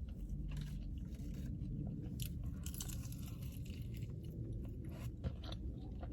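Close-miked chewing of crispy fried chicken wings: irregular crunching and wet mouth sounds.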